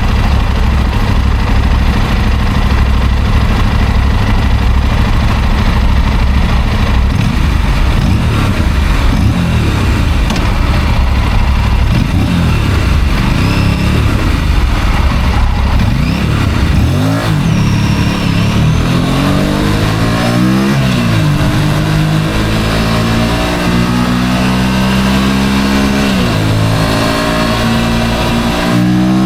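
Motorcycle engine idling steadily, then pulling away and accelerating. From about halfway through, its pitch climbs and drops back with each gear change, three times.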